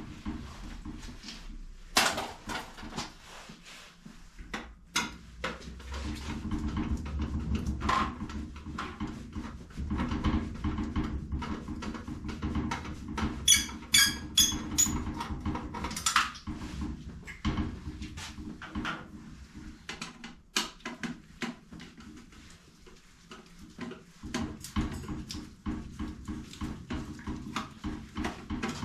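Hand work on water-heater piping and flue pipe: scattered knocks, clicks and clanks, with a brief run of ringing metallic clinks about halfway through, over a low steady hum for much of the time.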